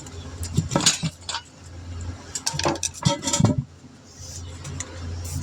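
Metal tools clinking and clattering in two bursts of knocks, about a second in and again around three seconds, over a steady low hum.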